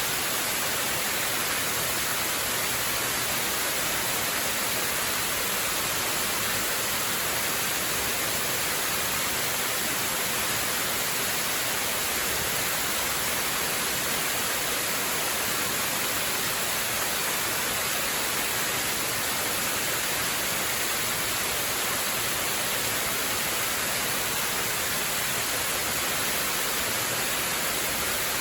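Waterfall rushing: a steady, even hiss of falling water with no breaks or changes.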